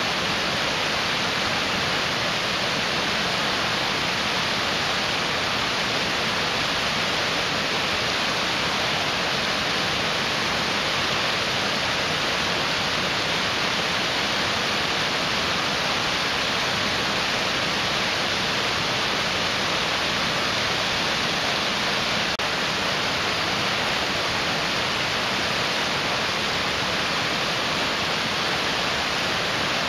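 Mountain stream rushing, a steady, unbroken hiss of fast-flowing water.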